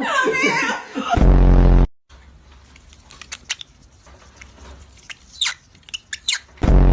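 A parrot's short, thin chirps and squeaks, set between two loud, low, harsh buzzes, the first about a second in and the second near the end.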